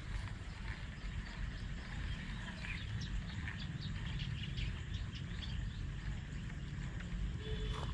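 Small birds chirping in many short, high calls, thickest in the middle, over a steady low rumble.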